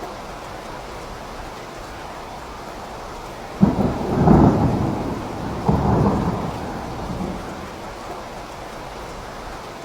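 Steady rain with a sudden crack of thunder about three and a half seconds in and a second clap about two seconds later, the rumble dying away over a couple of seconds.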